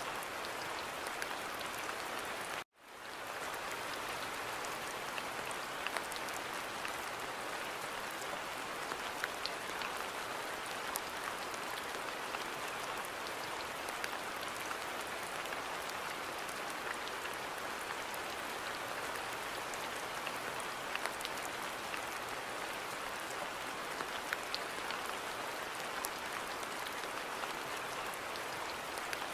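Steady rain falling on a garden: a dense, even hiss with individual drops ticking through it. The sound cuts out for an instant about three seconds in.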